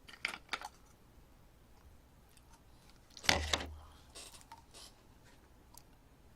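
Plastic ketchup bottle with a clogged nozzle being handled and squeezed. A few light clicks, then a short sputtering burst with a dull thump about three seconds in, and two fainter sputters after it.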